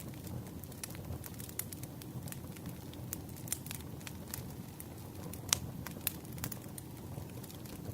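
Campfire burning: a steady low rumble with irregular wood crackles and pops, one sharper pop a little past halfway.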